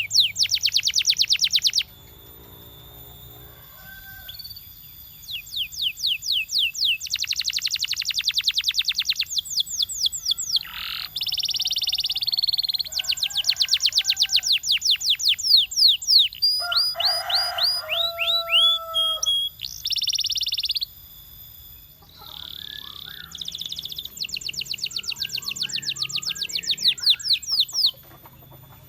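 Domestic canary singing, a song of rapid trills: runs of fast repeated high notes in phrases with short pauses between them, including a brief lull a couple of seconds in and another about three quarters of the way through.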